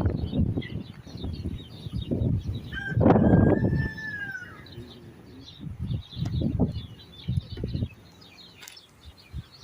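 A rooster crows once, about three seconds in, in a single drawn-out call that falls at the end, over small birds chirping. Repeated low thuds and rustles are louder than the birds.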